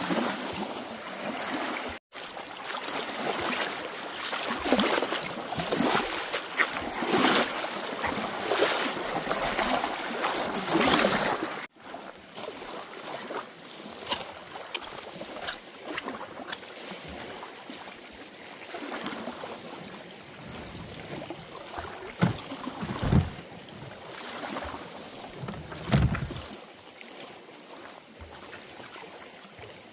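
Lake water lapping and splashing, with wind on the microphone. Two low thumps come near the end.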